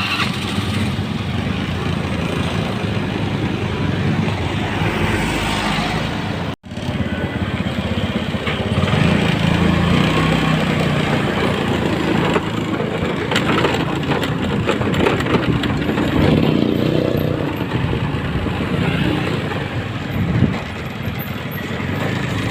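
Motor vehicle running on the road, with a steady engine and road-noise rumble. The sound drops out for an instant about six and a half seconds in.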